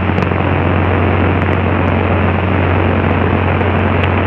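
Cessna 172SP's four-cylinder Lycoming engine and propeller droning steadily in flight, heard from inside the cabin as a loud, even low hum over a wash of noise.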